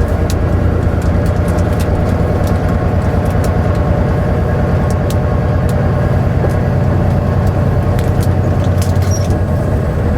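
Semi-truck driving at highway speed, heard inside the cab: a steady low engine drone and road rumble, with scattered faint clicks throughout.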